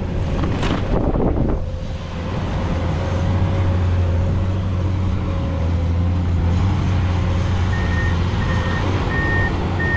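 Heavy truck diesel engine running steadily with a low drone. A burst of noise comes in the first second and a half. Near the end the truck's reversing alarm starts beeping, about one beep every 0.7 s.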